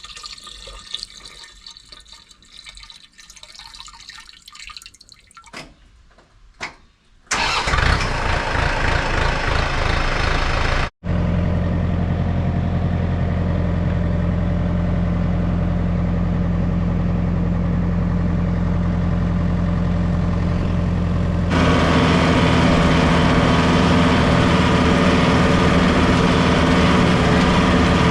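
A few seconds of small clicks and knocks, then the John Deere 4600 compact tractor's diesel engine starts and runs steadily. About two-thirds of the way in it steps up louder and stays there.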